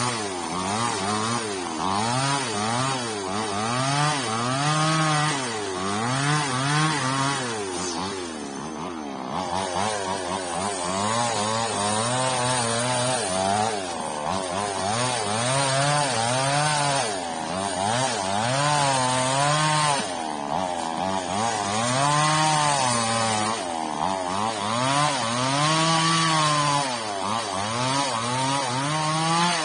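Small petrol-engined saw cutting old frond stubs off an oil palm trunk, its engine pitch rising and falling every couple of seconds as it bites in and eases off.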